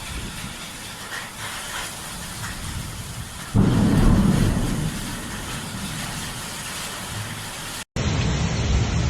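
Steady hiss of heavy rain. About three and a half seconds in, a loud thunderclap breaks in and rumbles low, fading over the next few seconds.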